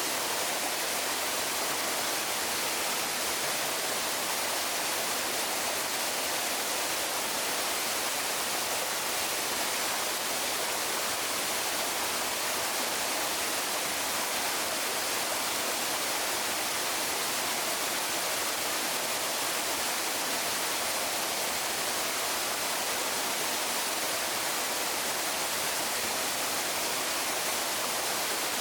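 Waterfall rushing: a steady, even hiss of falling water that never changes.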